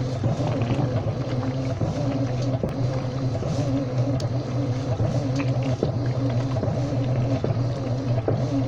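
Washing machine running, a steady low hum with a wavering higher tone and scattered small clicks.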